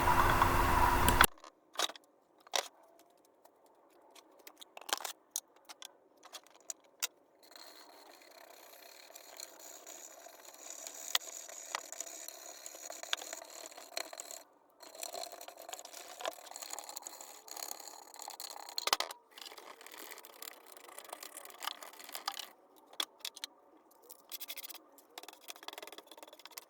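Faint scraping and scattered sharp clicks of hand work on engine parts: cleaning the timing-chain front cover and fitting new O-rings and gaskets. A louder sound in the first second cuts off suddenly.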